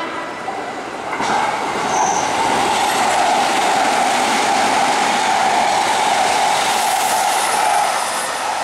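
A Hanshin Railway electric train running past on the adjacent platform track. It is loud and steady from about a second in, with a strong high wheel and rail noise, and eases off near the end as it pulls away.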